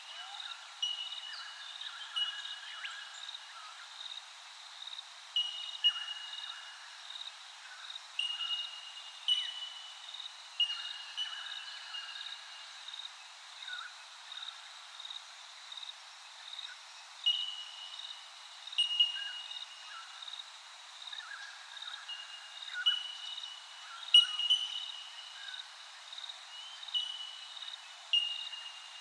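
Birds calling with repeated short whistled notes at several pitches, over a steady, evenly repeating high chirp.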